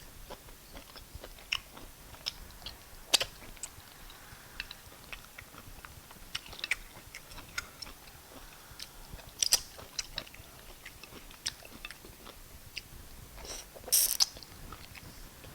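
Close-up eating sounds: chewing, wet mouth smacks and scattered sharp clicks of someone eating fufu and soup with meat. A few clicks stand out, the loudest cluster near the end.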